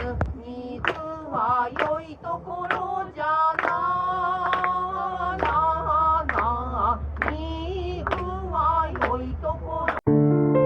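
Unaccompanied voice singing a drawn-out, wavering melody over a steady low hum. About ten seconds in it cuts off suddenly to soft piano music.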